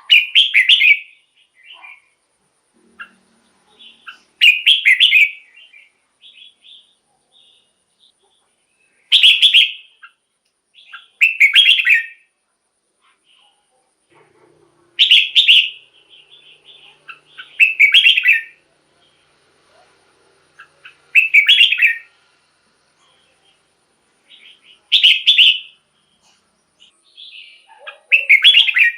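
Red-whiskered bulbul singing: short, loud, warbled phrases of about a second each, repeated about every three seconds, with softer chirps in between.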